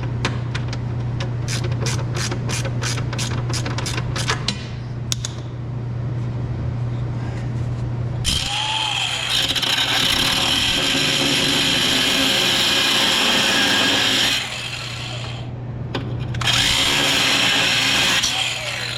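A bolt being cut short with a power cutting tool: the tool spins up and grinds steadily for about six seconds, stops, then grinds again for about two seconds near the end. Before that, a ratchet clicks about four times a second for a few seconds, over a steady low hum.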